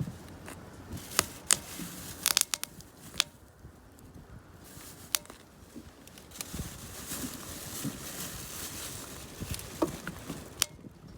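Wood campfire crackling, with sharp, irregular pops, several close together in the first few seconds, and a soft hiss through the middle.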